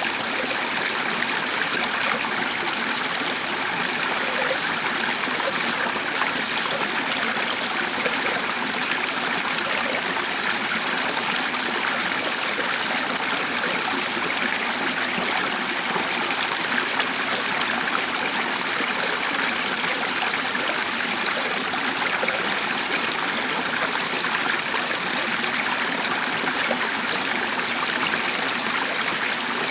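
Stream of water running steadily, a continuous even rush.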